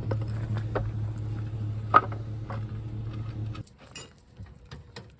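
Pickup truck engine idling with a steady low hum, then shut off about three and a half seconds in. Light clicks and knocks run through it, with one sharp click about two seconds in.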